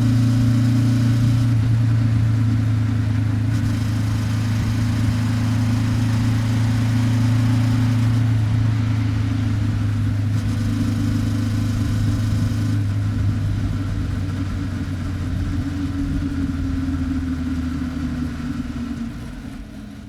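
Honda 400X's 399 cc parallel-twin engine through its stock muffler, running at a steady cruising speed with an even exhaust note; the sound fades out near the end.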